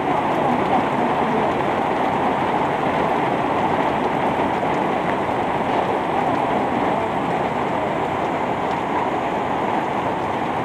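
Heavy downpour from a sudden shower of large raindrops, a steady dense hiss that holds at an even loudness throughout.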